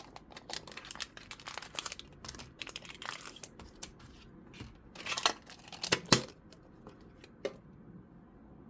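Packaging crinkling and tearing with scattered small clicks and taps as a Pokémon card mini tin and its contents are opened by hand; the loudest rustles come a little after five seconds in and again around six seconds.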